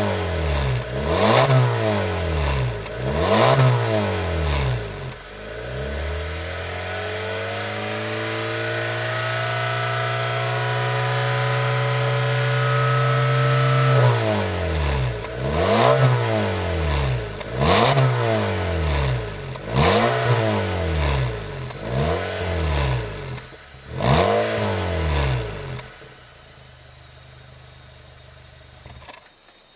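Honda Fit RS's four-cylinder engine through a Kakimoto GTbox 06&S aftermarket muffler. It is revved in quick blips, then climbs slowly and steadily in revs before dropping back sharply about 14 seconds in. More blips follow, then it settles to idle, which cuts off just before the end.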